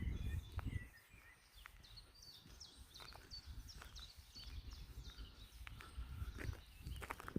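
Small birds singing, with many short high chirps and quick trills. A low rumble of wind on the microphone is heard for about the first second.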